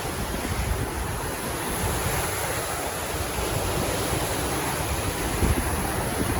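Sea surf washing steadily on the shore, with wind buffeting the phone's microphone in low gusts.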